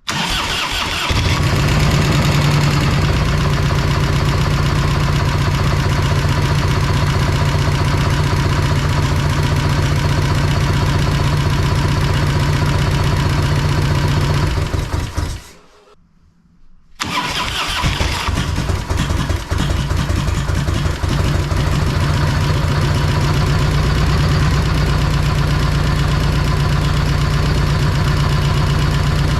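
Freshly rebuilt Harley-Davidson Evolution V-twin engine on its first start: it cranks over and catches almost at once, runs steadily for about fifteen seconds, dies away, then is restarted and runs again for the rest of the time.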